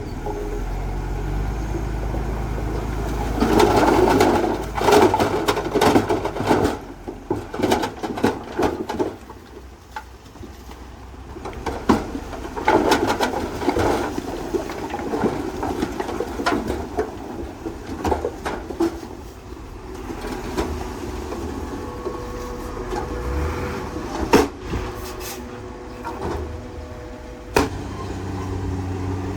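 Heavy earthmoving machinery at work: a diesel engine running under a steady low rumble, with repeated clanks and knocks. Louder rattling comes a few seconds in and again around the middle.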